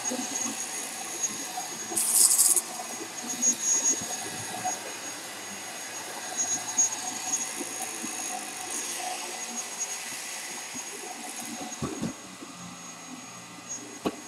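Vacuum cleaner running with a steady whir, with a brief louder hiss about two seconds in.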